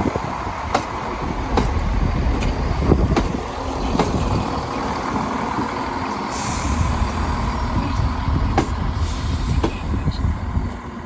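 A train moving through the station, a steady low rumble broken by a series of sharp, irregular clicks, with a short hiss a little after six seconds in.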